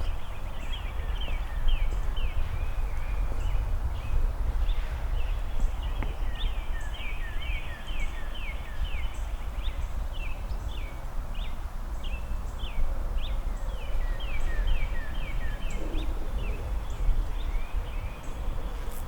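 Songbirds chirping over and over in quick, falling notes, with a walker's footsteps and a low steady rumble underneath.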